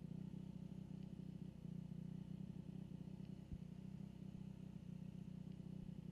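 Dirt bike engine running at a steady pitch with a fast even pulse, and one faint knock about three and a half seconds in.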